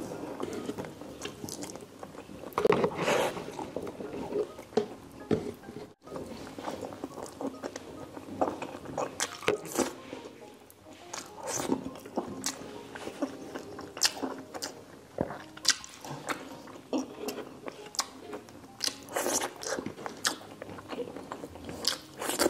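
Close-miked eating sounds of a person chewing saucy braised pork asado and rice eaten by hand, with frequent wet lip smacks and mouth clicks.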